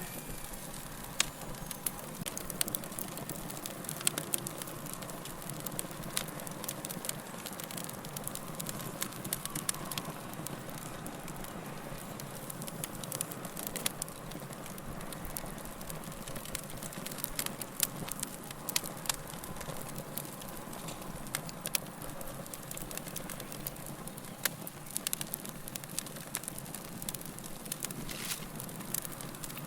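Wood log fire crackling: a steady rush with many sharp pops and snaps at irregular intervals.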